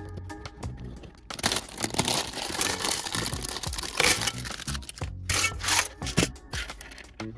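A plastic LEGO parts bag being torn open and rustled for about three and a half seconds, with sharp plastic clicks of bricks being handled before and after it. Background music plays underneath.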